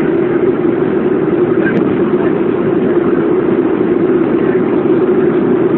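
Steady drone of a Boeing airliner's jet engines heard inside the passenger cabin, an even rushing noise with a low hum.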